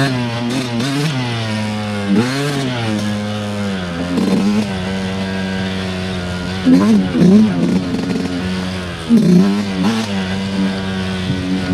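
Dirt bike engine running under a rider on trail, the revs rising and falling every couple of seconds as the throttle is worked, with steadier stretches in between.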